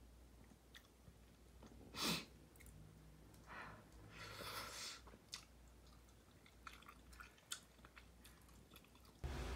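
Quiet close-up eating sounds: a person chewing a soft egg-and-cheese custard, with small clicks of a metal spoon in a ceramic bowl. A short louder mouth sound comes about two seconds in, and another noisy stretch comes around four to five seconds.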